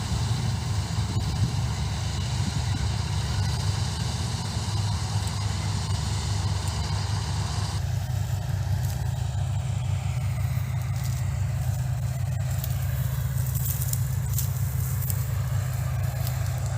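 Combine harvester running with a steady, low engine drone and machinery noise. About halfway through the higher-pitched noise drops away, leaving the drone with scattered faint crackles.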